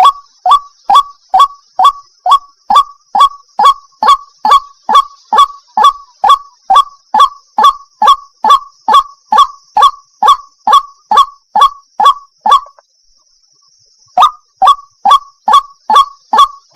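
White-breasted waterhen (ruak-ruak) calling, a loud honking note repeated about two and a half times a second, each note dropping in pitch. The calls break off for about a second and a half past the middle, then resume.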